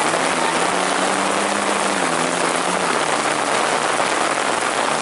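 Heavy rain falling with a steady, loud hiss. A low droning tone sits under it for the first three seconds or so, then fades.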